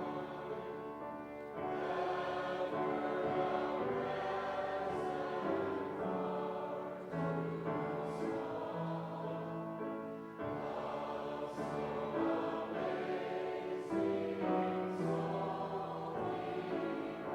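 A church congregation singing a hymn together, with sustained notes and steady phrasing.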